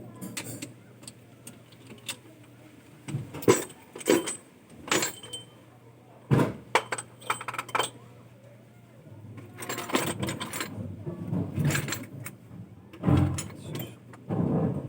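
Irregular metallic clinks and knocks, some sharp and loud, over a steady low hum.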